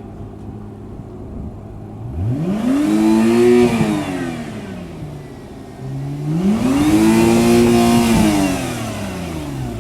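Acura NSX's twin-turbo V6 idling, then revved twice: the pitch climbs, peaks and falls back each time, with the second rev held longer at the top before dropping back to idle.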